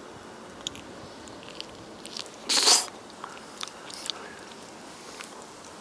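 Someone eating raw chicken: scattered wet mouth clicks from chewing, and one loud, short crunch about two and a half seconds in.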